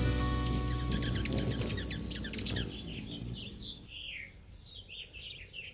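Guitar background music fades out over the first two and a half seconds. A small bird then chirps a quick run of short notes, each falling in pitch.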